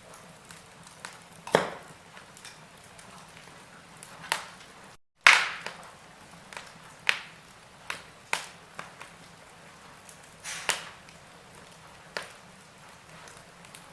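Wood fire in a fireplace crackling, with irregular sharp pops over a low hiss. The sound cuts out for a moment about five seconds in, then comes the loudest pop.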